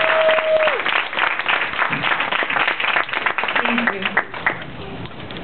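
Audience applauding, with one voice holding a long cheering call at the start; the clapping thins out and dies away after about four and a half seconds.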